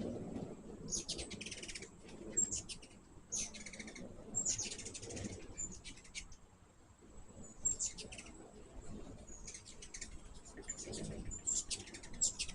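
Hummingbirds chattering: clusters of quick, high chips, one burst every second or two, over a low rumble.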